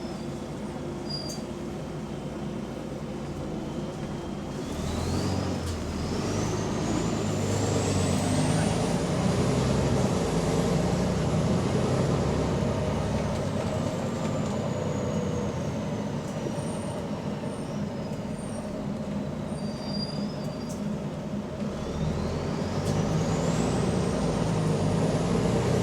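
Bus diesel engine pulling away and accelerating, with a high whine rising in pitch. It eases off as the whine slowly falls, then accelerates again near the end. This bus has an exhaust leak.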